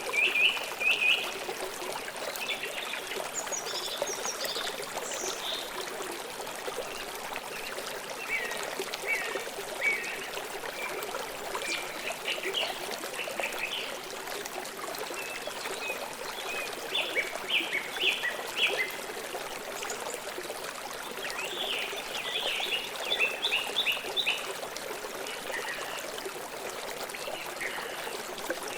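Water flowing in a steady rushing trickle, with a bird chirping in short quick runs of high notes every few seconds.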